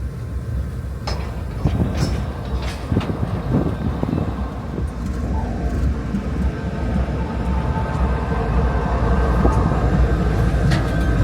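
Train rumbling along the rails, with a few sharp metallic clanks in the first three seconds and a slight rise in loudness toward the end.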